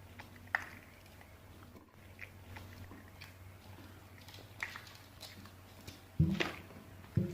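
A Shiba Inu chewing and gnawing, with scattered small clicks, then a louder sudden noise about six seconds in.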